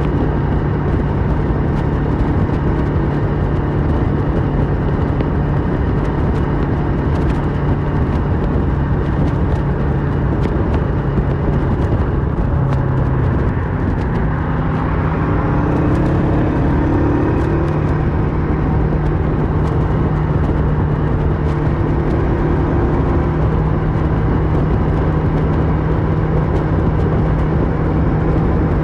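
Kawasaki Versys 650's parallel-twin engine running through a MIVV slip-on exhaust while riding, over steady wind rush. The engine note drops briefly about halfway, then rises again as it picks up speed.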